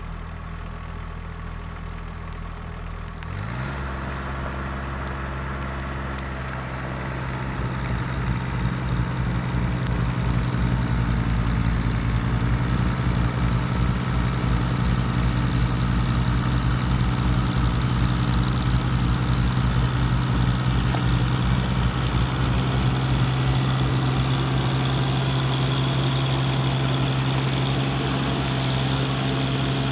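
Mahindra eMax 20S HST compact tractor's diesel engine running; it revs up about three seconds in and then holds a steady, higher speed, growing louder around eight seconds in.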